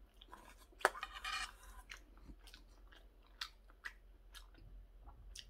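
A man chewing and eating a mouthful of curry rice close to the microphone, with scattered sharp clicks and a louder click just under a second in.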